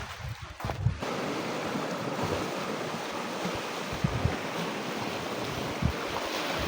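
Steady rushing of sea surf, starting about a second in, with occasional low wind buffets on the microphone.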